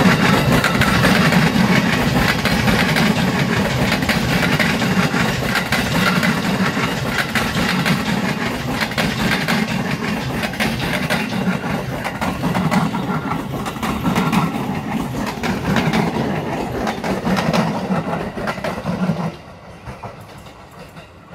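JR 205 electric commuter train passing, its wheels clattering over the rail joints over a steady heavy rumble, until the last car goes by about nineteen seconds in and the sound falls away sharply.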